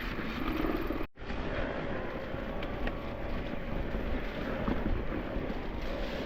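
Mountain bike rolling down a wet, muddy trail: steady tyre and rushing noise on the rider-mounted camera's microphone, with a faint steady hum through it. It drops out briefly about a second in.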